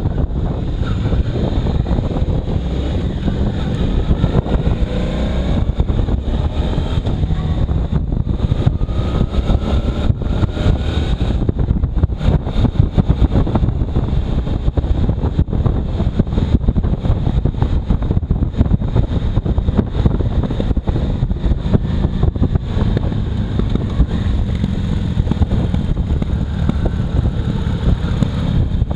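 Motorcycle riding at speed in strong wind: heavy wind buffeting on the microphone over the engine's running, whose pitch rises and falls faintly in the first half.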